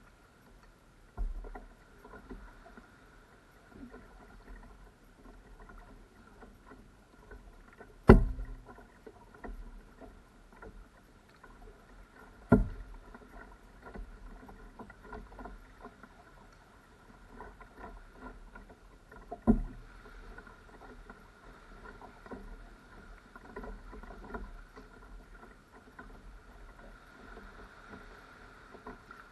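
Sea kayak being paddled: uneven water splashing and dripping from the paddle strokes, broken by four sharp knocks, the loudest about eight seconds in.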